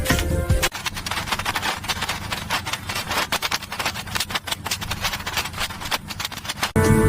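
Music cuts off less than a second in, giving way to continuous scraping and rubbing full of rapid small clicks, like a tool worked against a hard gritty surface; music comes back near the end.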